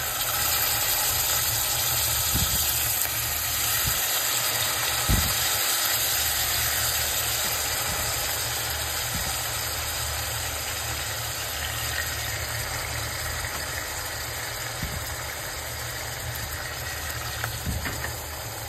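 Chicken livers sizzling in hot oil in a non-stick kadhai. The sizzle starts at full strength as they go in and eases slowly, with a steady low hum underneath and a few light knocks in the first several seconds.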